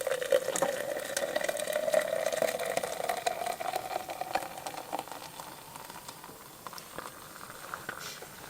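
Hot water poured from a pot into a travel mug, the pitch of the pour rising steadily as the mug fills, then tapering off about two-thirds of the way through.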